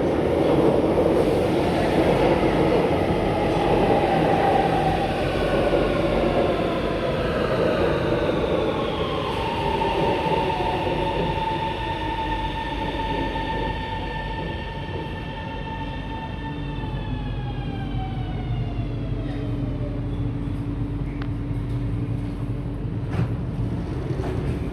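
Shanghai Metro Line 2 train pulling into the station. The cars rumble in, then the traction motors whine in a stack of tones that fall in pitch, hold steady, and fall again as the train brakes to a stop, leaving a low hum.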